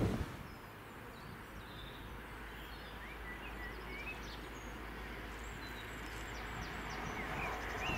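Small birds chirping over a faint low background rumble. The rumble swells slightly near the end as a distant HST diesel train approaches.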